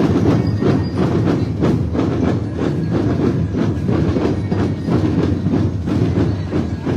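Parade percussion band drumming a steady, fast beat, with evenly spaced loud drum strokes several times a second.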